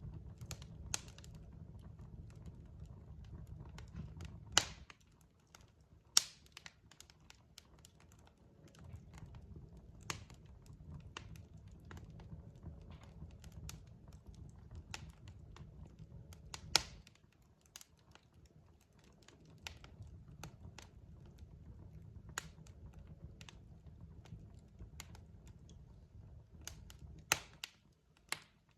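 Wood fire crackling: irregular small pops with a few louder, sharp snaps of burning logs, over a low rumble that fades out and returns a few times.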